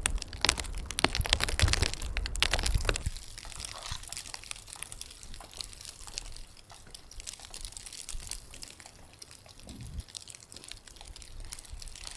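Dense crackling and crunching with a low rumble for about three seconds, then fainter, scattered crackles.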